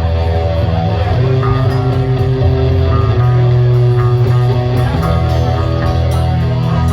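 Live band music with electric guitar and bass guitar playing loud sustained chords.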